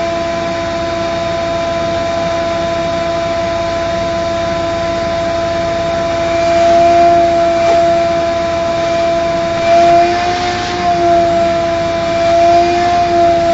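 Vacuum cleaner running with a steady whine over rushing air, its pitch wavering slightly a couple of times in the second half.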